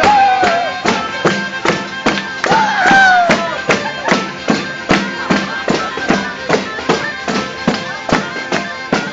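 Southern Italian folk tune played live on a zampogna bagpipe, its drones held steady under the melody, over a steady tambourine beat of about three strikes a second.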